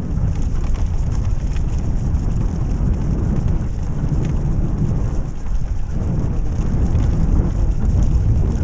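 Steady low rumble of wind buffeting the microphone, mixed with the dryland rig's wheels rolling along the trail behind the dog team.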